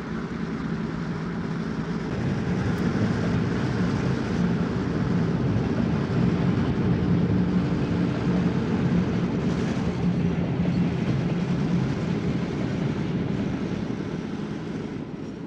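A train rumbling past, growing louder through the middle and fading near the end.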